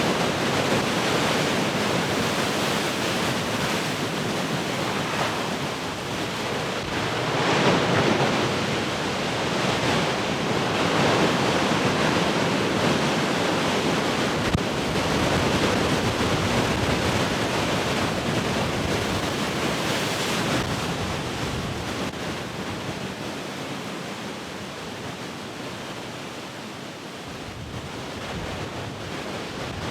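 Heavy ocean surf: waves breaking and washing in a continuous rush, swelling louder about a quarter of the way in and again past the middle, then easing off toward the end.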